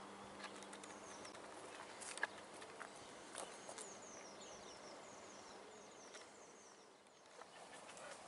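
A small bird sings faintly: a run of quick, high notes, each sliding down in pitch, repeated two to three times a second for about five seconds. Light footsteps and clicks come through beneath it, with one sharper click about two seconds in.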